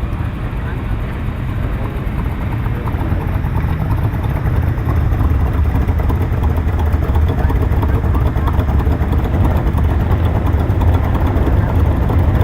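Car engine running with a steady low rumble, growing louder from about four seconds in as it draws closer.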